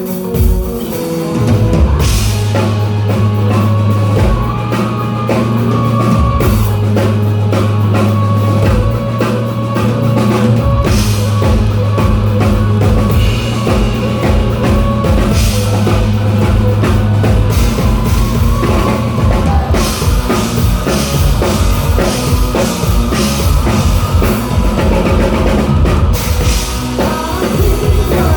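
Live rock band playing loud, full drum kit, bass and guitars, heard through a phone recording in a bar.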